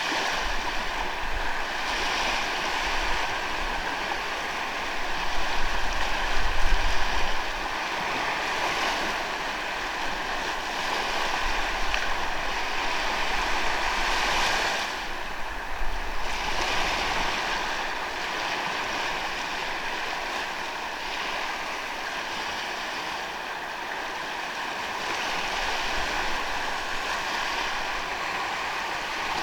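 Sea waves breaking and washing up a sandy beach, the surf swelling and easing every few seconds. A low rumble is loudest about five to seven seconds in.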